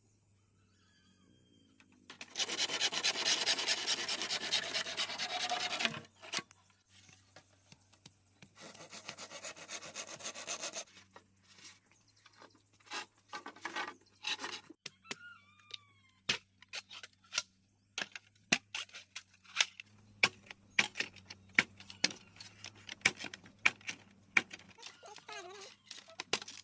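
Wood being sawn by hand in two spells of rasping strokes, followed by a run of irregular sharp knocks on wood. Small birds chirp faintly in between.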